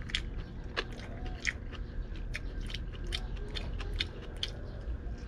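Close-up sounds of a person chewing and smacking while eating soft squid and rice by hand: a string of short sharp clicks, a few each second.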